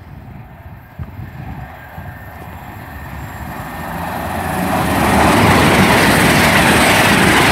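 Class 221 Super Voyager diesel train approaching and passing through the station at speed. It grows steadily louder and is loudest over the last two to three seconds as the cars rush past.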